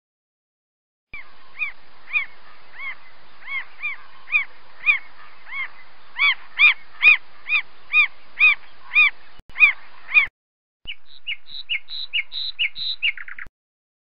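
Recorded calls of a Steller's jay and a northern mockingbird: about nine seconds of repeated arched, rising-then-falling calls at about two a second that grow louder midway, then after a short break a quicker run of short notes.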